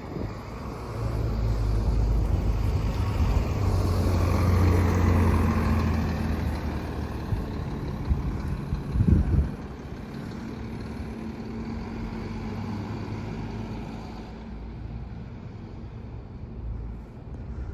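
A heavy road vehicle's engine runs close by, loudest about four to five seconds in. About nine seconds in there is a brief loud burst of noise, then the engine settles to a quieter steady hum.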